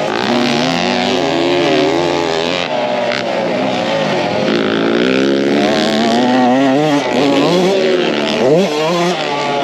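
Dirt bike engine being ridden hard, its pitch climbing and dropping again and again as the throttle is worked and gears change, with one sharp rev climb near the end.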